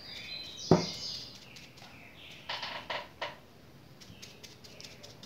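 A bird chirping repeatedly, short falling chirps. There is a sharp knock about three-quarters of a second in, the loudest sound, and a few short scuffing sounds a little past the middle.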